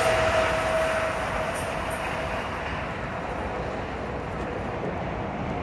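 A passing NJ Transit electric train's rumble and rail noise fading as it moves away. A steady whine dies out about a second in, leaving a lower, even rumble.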